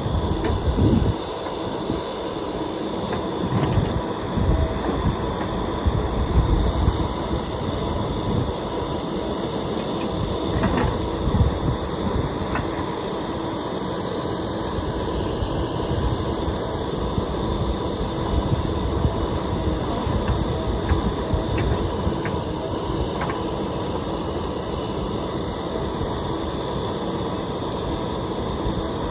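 Diesel engine of a JCB 3DX backhoe loader running steadily as it works, with surges in loudness and a few brief knocks.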